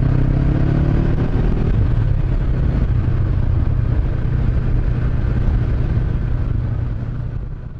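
Honda CB500X's parallel-twin engine running steadily, fading out near the end.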